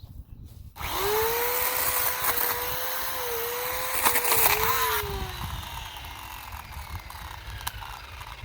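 Sun Joe 12-inch electric chainsaw starting about a second in, its motor whine rising and then running while the chain cuts into wood. The pitch dips several times under load, and a sharp crack comes a little past the middle. About five seconds in, the cutting noise stops suddenly and the motor winds down with a falling whine. The chain is only hand-tightened and too loose.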